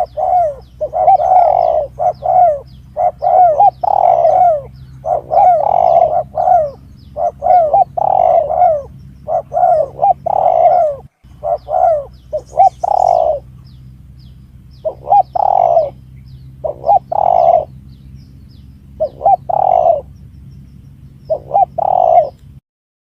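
Spotted dove lure call: repeated cooing phrases, coming thick and overlapping in the first half and in sparser groups later, over a steady low hum that stops near the end.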